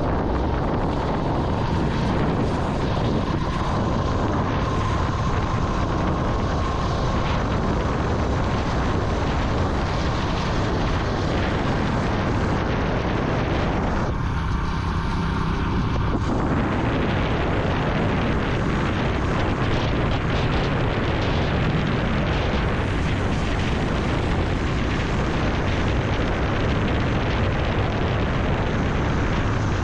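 Vintage Yamaha motorcycle running on the move, its engine rumble under a steady rush of wind and road noise on the microphone. For about two seconds around the middle the sound briefly thins out.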